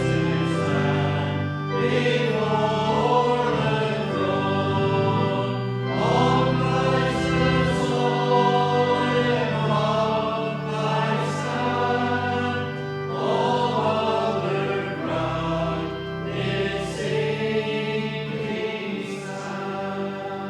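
Congregation singing the closing lines of a hymn over a steady instrumental accompaniment, in long held phrases with short breaths between them.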